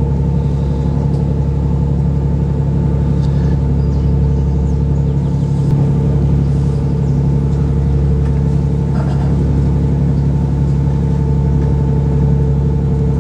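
A tour boat's engine running steadily underway, a low, even drone heard from on board.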